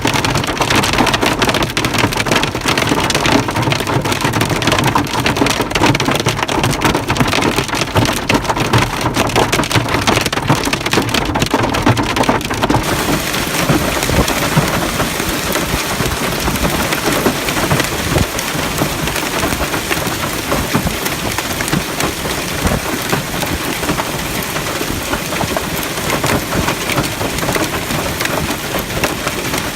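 Heavy rain falling on hard surfaces. For about the first thirteen seconds it is dense with separate drop hits, then it settles into a more even hiss.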